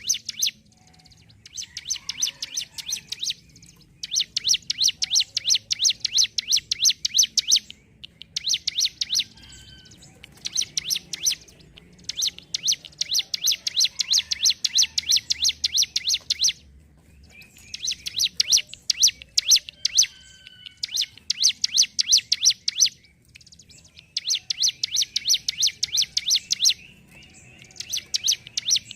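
Ciblek gunung (brown prinia) singing its fast rattling 'ngentrok' song: rapid trills of sharp ticking notes in about nine bursts of one to four seconds each, separated by short pauses.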